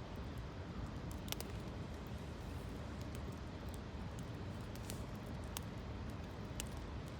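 Wood campfire crackling, with a sharp pop every second or so over a steady rushing background noise.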